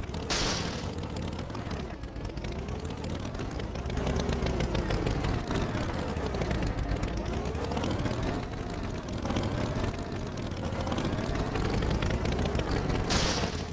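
A motor vehicle engine running, its pitch rising and falling in slow waves, with short hissing bursts near the start and near the end.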